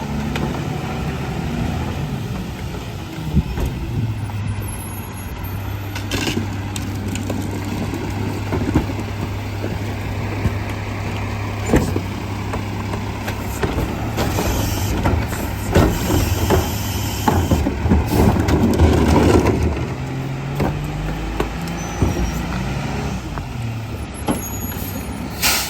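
Garbage truck engine stepping up to a steady higher speed about four seconds in and dropping back near the end, with scattered knocks and clatters. A louder rush of noise with a high hiss comes in the second half.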